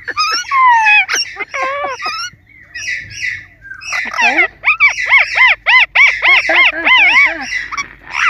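Parrot calling: a burst of gliding squawks, a short pause, then a fast run of repeated rising-and-falling calls, about three a second.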